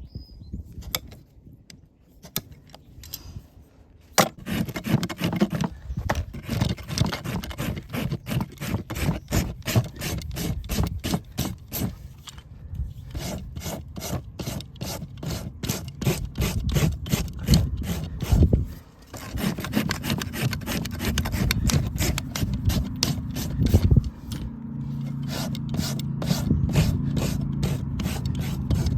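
A farrier's rasp filing a horse's hoof wall in steady back-and-forth strokes, about two to three a second, with a couple of short pauses. A low steady hum joins near the end.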